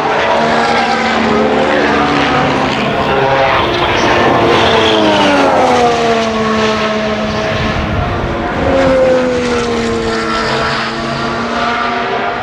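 Formula 1 cars' 1.6-litre turbocharged V6 hybrid power units at high revs, several cars passing in close succession. Their engine notes overlap, and twice the pitch drops in a long falling sweep as cars go by.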